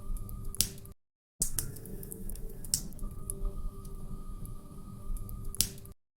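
Wood fire crackling in a fireplace, with sharp pops several times over a steady low rumble. The sound cuts to dead silence twice briefly, about a second in and near the end.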